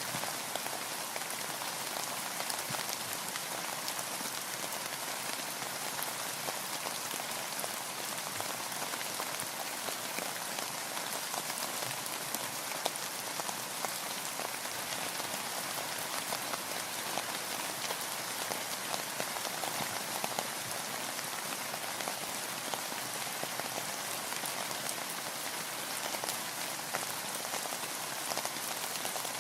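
Steady rain: a dense, even patter with many small, sharper drop ticks scattered through it.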